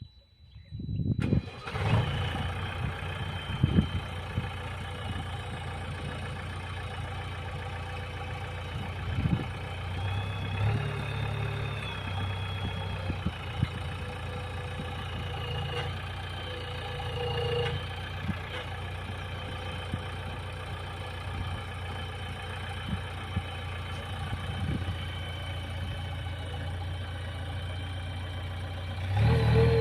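Heavy diesel engine of a backhoe loader or tractor running at a steady idle, coming in abruptly about a second in. The revs rise briefly a few times, and it gets louder near the end.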